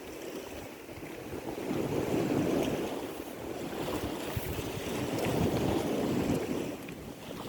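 Sea waves washing with wind, as a rushing noise that swells twice.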